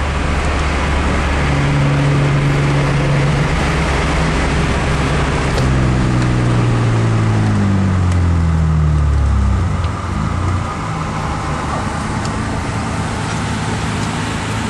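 A car's engine and exhaust droning at steady revs, then falling steadily in pitch over a few seconds as it slows or moves away, dropping off about ten seconds in to a steady road hum.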